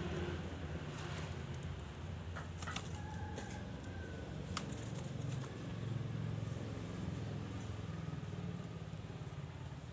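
Steady low rumble of background noise, with a few faint short bird whistles and scattered clicks a few seconds in.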